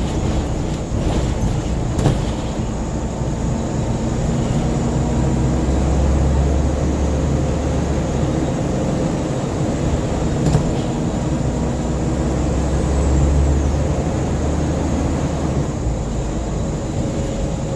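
Scania N94UB single-decker bus heard from inside the saloon: a steady low diesel engine and road rumble that swells twice as the engine pulls harder, with a couple of sharp interior knocks and rattles.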